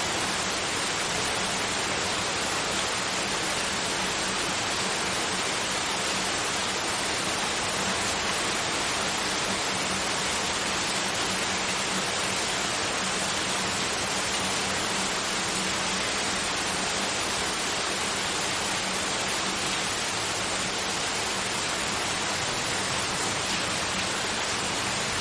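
Steady, unchanging synthetic noise like white or pink noise, a constant hiss spread evenly up to the upper treble with a faint low hum under it.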